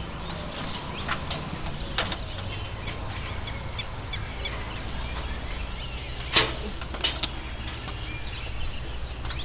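Outdoor ambience: a steady low rumble like distant traffic, with faint bird chirps and a few sharp knocks, the loudest about six seconds in.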